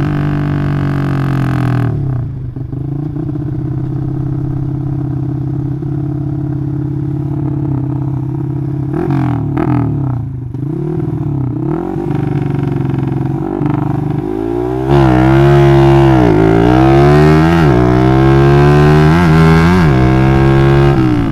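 Bored-up 180cc Yamaha Jupiter MX single-cylinder four-stroke running through a loud Requsan aftermarket exhaust. It runs low with a few throttle blips, then about 15 seconds in it launches from a standstill and accelerates hard, the revs climbing and dropping several times as it goes up through the gears.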